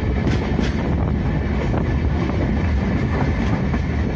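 Passenger train running along the track, heard from its open door or window: a steady low rumble with a few light clicks, and wind buffeting the microphone.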